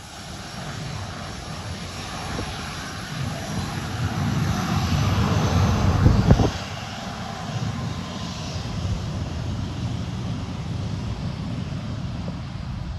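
Aircraft engine noise from a passing fixed-wing plane, building to its loudest about six seconds in, then dropping off sharply to a steadier, lower rumble.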